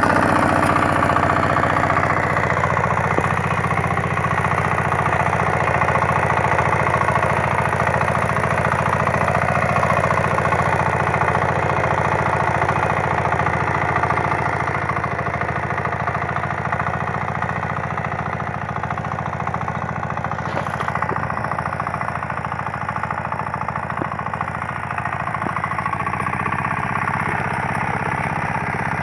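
9hp KAMA single-cylinder air-cooled diesel engine running steadily with an even, fast firing knock. It gets a little quieter about halfway through.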